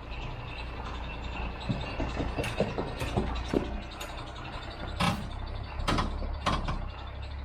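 Large truck engine idling steadily, with a series of sharp metallic clanks and knocks over it.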